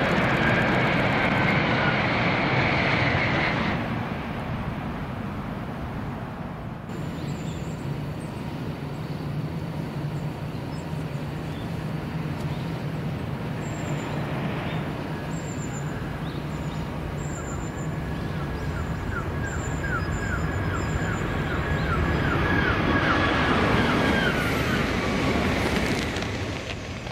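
Shinkansen train passing at speed: a loud rushing noise with a slightly falling tone that dies away after about four seconds. A steady low hum follows, and the rushing builds again near the end. Faint high chirps can be heard in the quieter middle.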